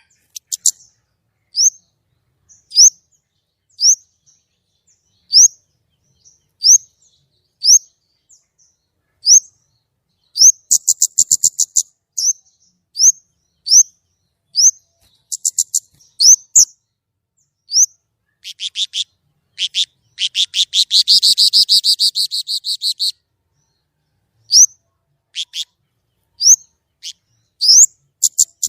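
White-rumped shama singing: a run of short rising whistles about once a second, broken by quick rattling trills and, past the middle, a rapid trill lasting about three seconds.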